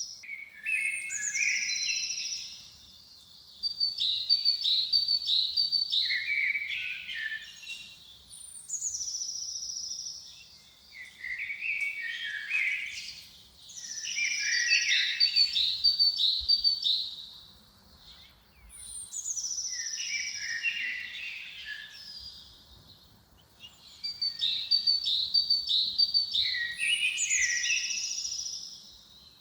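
A songbird singing a repeated song. Each phrase lasts a few seconds and opens with a high falling whistle, then runs into quick, twittering notes. The phrases come back every few seconds with short pauses between them.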